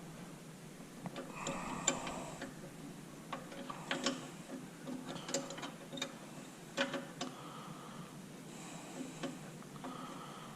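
Irregular metallic clicks and light knocks of hand tools working a brake bleeder screw loose, with a few short scraping sounds between them.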